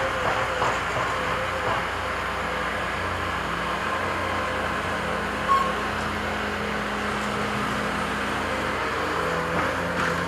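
Heavy construction machinery engines running steadily, with one short, sharp high squeak about halfway through.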